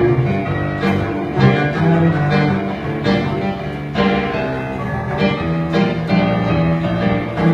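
Live cello jamming with a busker's accompanying instrument: sustained cello notes over sharp, repeated attacking notes.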